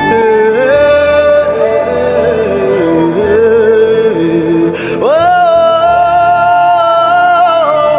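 A solo voice singing a slow melody over a steady instrumental background, sweeping up to a long held high note about five seconds in.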